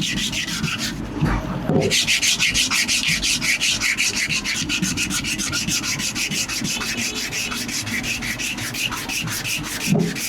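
Steel leaf-spring cleaver blank being worked with an abrasive: a fast, even rasping with several strokes a second, breaking off briefly about a second in.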